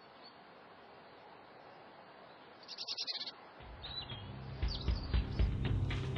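Small birds chirping: a quick run of high chirps about three seconds in and a few more shortly after, over a faint steady outdoor hiss. Music fades in during the second half and grows louder with a regular beat.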